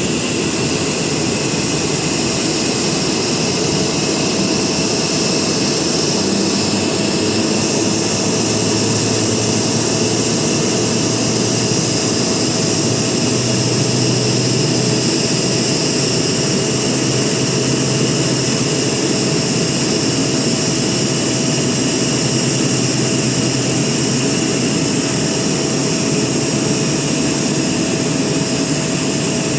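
Boeing jet airliner's engines running steadily: a constant rushing noise with a steady high whine that neither rises nor falls.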